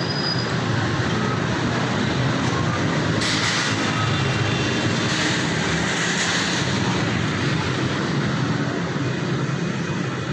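Steady motor-vehicle noise, a continuous rumble, with a stretch of hissing from about three to seven seconds in.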